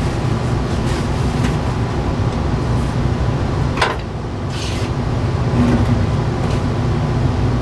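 A motor running steadily, with a brief higher-pitched sound near the middle.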